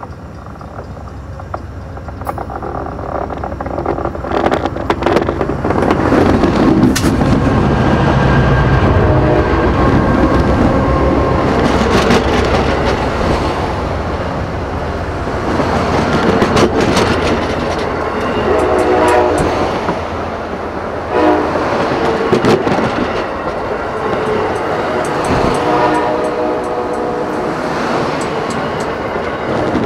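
Amtrak Vermonter passenger train approaching and then rolling directly over a microphone lying between the rails, with its horn sounding as it nears. It grows louder over the first few seconds, then the cars rumble past overhead with rapid clicks of the wheels over the rail joints.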